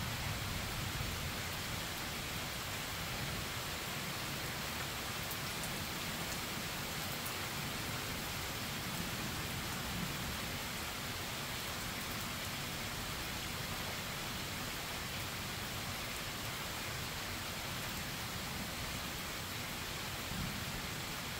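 Steady rain falling in a thunderstorm, an even hiss. The tail of a low thunder rumble dies away at the very start.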